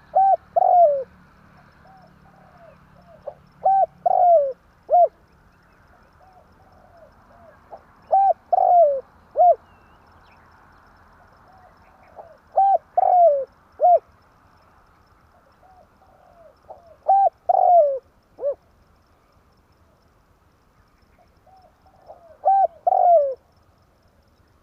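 Spotted dove cooing: six short phrases of several low, falling coo notes, repeated about every four and a half seconds. This is the tekukur's "tarik akar" call, played as a lure to draw other doves in.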